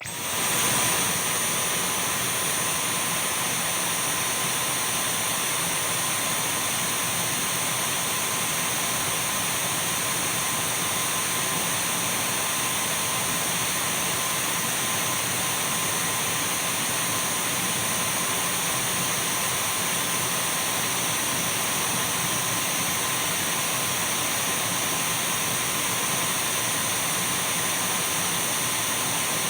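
Dyson V12 cordless stick vacuum switched on, its motor spinning up within the first second, then running steadily with a rush of air and a thin high whine.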